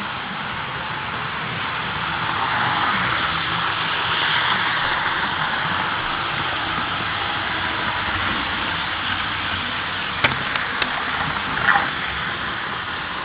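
HO scale model diesel locomotive running on the layout's track: a steady motor and wheel noise that swells for a few seconds, with a few sharp clicks near the end.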